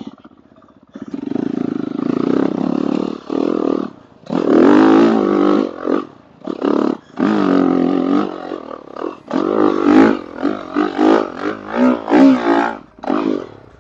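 Dirt bike engine revving in repeated bursts as the throttle is opened and closed, the pitch rising and falling, heard through a helmet intercom microphone.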